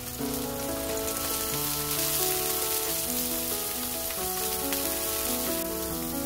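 Asparagus sizzling in oil in a frying pan, a steady hiss, under background music with a slow melody of held notes.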